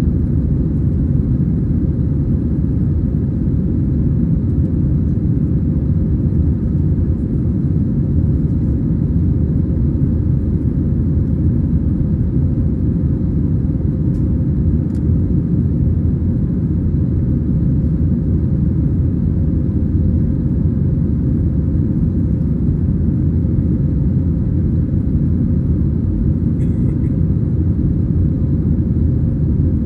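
Cabin noise inside an Airbus A320-214 airliner: its CFM56-5B turbofan engines and the airflow make a steady, loud low rumble.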